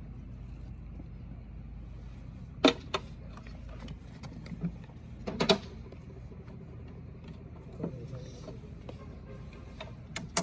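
A few sharp clinks and knocks of tools on metal engine parts, two close together about three seconds in and the loudest about five seconds in, over a steady low hum.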